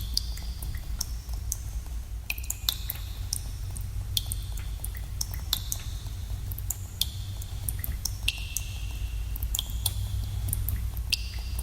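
Water drops falling irregularly in a cave, each a sharp plink with a brief ringing tone, several a second and at varying pitches, over a steady low rumble.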